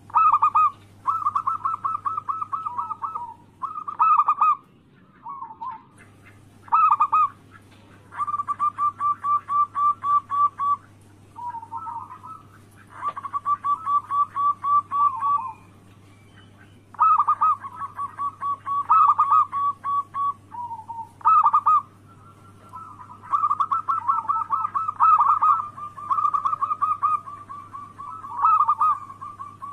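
Zebra doves (perkutut) cooing: phrase after phrase of fast, evenly pulsed coos, each a second or two long with short pauses between, the phrases overlapping near the end. A faint steady low hum runs underneath.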